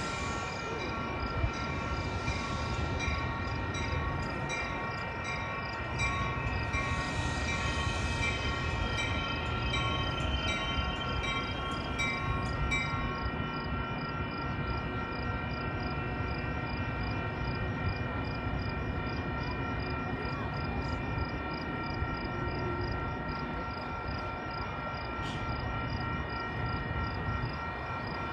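Inbound Metra commuter train approaching: a steady low rumble under held high tones that pulse quickly and evenly through the first half.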